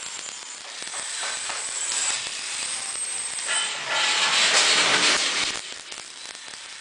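Hissing noise that swells to its loudest about four seconds in and fades again a second and a half later.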